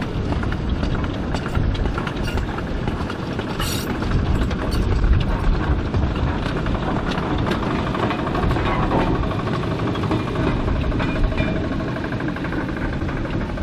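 A sugar cane train on 2 ft gauge track running past: a steady heavy rumble with many small knocks and clicks from the wagons.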